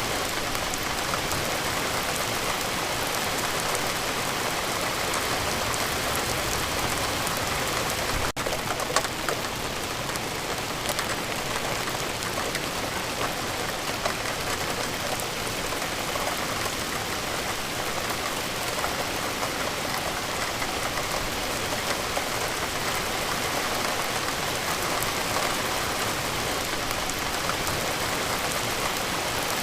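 Steady rain falling, an even patter of many drops with a few louder single drop taps. There is a momentary dip just after eight seconds.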